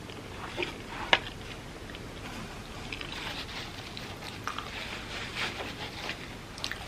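Close-miked eating sounds: soft, moist chewing and mouth noises, with a sharp click about a second in and a denser stretch of wet crackle in the middle.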